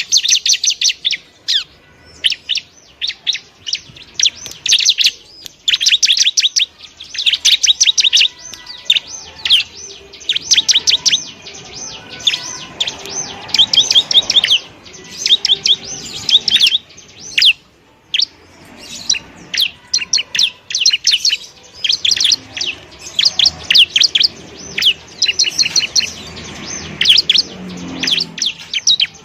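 Ciblek (bar-winged prinia) singing in fast phrases of rapidly repeated high, chirping notes. Each phrase lasts a second or two and follows another after a short break.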